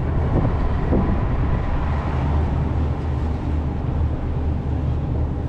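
Steady low drone of a sightseeing cruise boat's engines under way, with a constant rushing noise.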